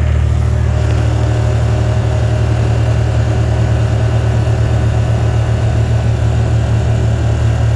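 A vehicle's engine running steadily, heard from inside the cab as a loud, even low hum.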